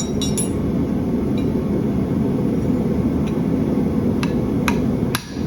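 Hammer striking bar steel against the side of an anvil to punch a centre mark, in short ringing metallic taps: a quick few at the start, then three about half a second apart near the end. A steady low roar underlies the taps.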